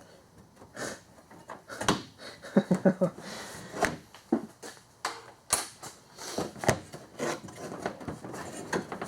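Irregular clicks and knocks of hand tools working an 8 mm bolt on the plastic coolant reserve tank in the engine bay, a cluster of them around the middle.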